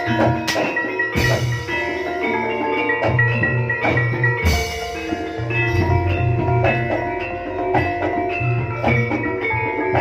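Jaranan gamelan music: bronze gong-chime and metallophone tones struck in steady interlocking patterns over a pulsing drum, with a few cymbal-like crashes near the start and about halfway through.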